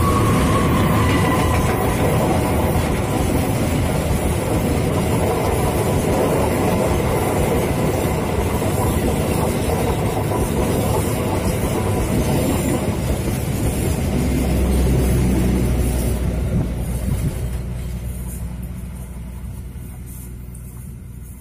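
Indonesian CC 206 diesel-electric locomotive and its train of passenger coaches passing close by, with loud engine and wheel-on-rail noise. The noise fades from about 17 seconds in as the train moves away.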